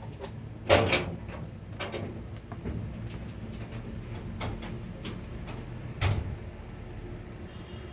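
Scattered clicks and knocks, as of small objects being handled and set down, over a low steady hum. Two knocks stand out: one about a second in and one about six seconds in.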